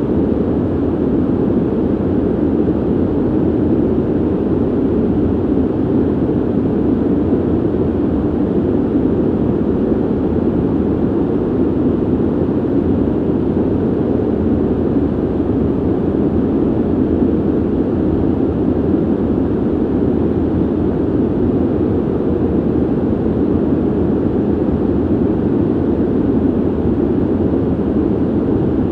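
Ventilation air noise: a steady, low, even rushing hiss with no changes in level or pitch.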